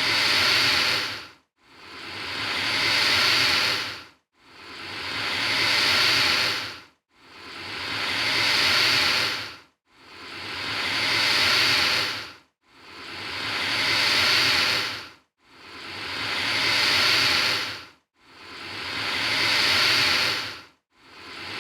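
Alligator hissing over and over, the same breathy hiss repeated about every three seconds, each one swelling and then fading away.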